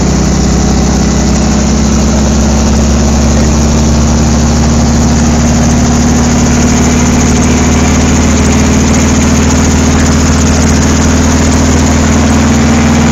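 Helicopter engine and rotor noise heard from inside the cabin: a loud, steady drone with a constant low hum.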